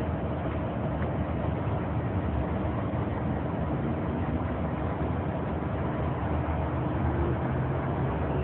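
Steady low rumble of a running vehicle, with no sudden sounds.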